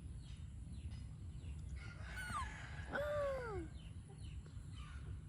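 Chickens calling: two short calls falling in pitch around the middle, over a steady low rumble.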